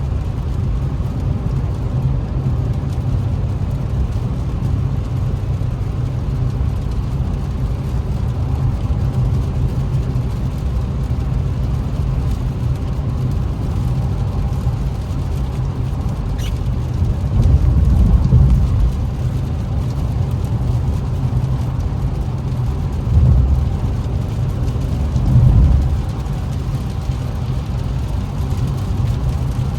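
Steady in-cabin rumble of an Infiniti Q50S driving on a rain-soaked road: engine and wet-tyre noise under a haze of rain. There are three brief louder low swells, one about halfway through and two shorter ones a few seconds later.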